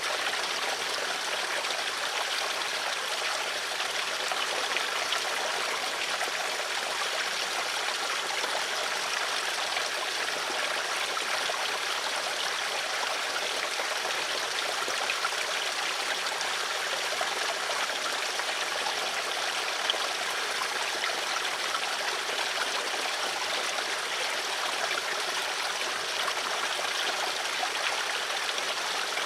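Flowing water: a stream running over stones, a steady babbling and trickling without a break.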